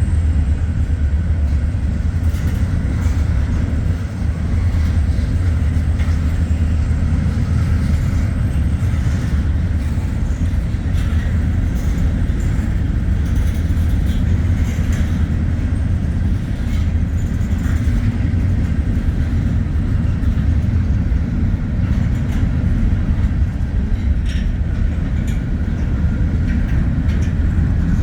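Wheeling & Lake Erie freight train rolling by with a steady, loud low rumble of wheels on rail.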